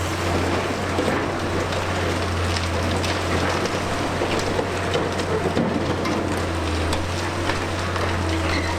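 Liebherr R 960 high-reach demolition excavator's engine running with a steady low hum, under a dense crackle of breaking and falling concrete debris.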